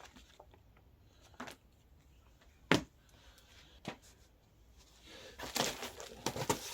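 Parts and packaging being handled: a few separate knocks, the loudest a little under three seconds in, then plastic packaging crinkling from about five seconds in.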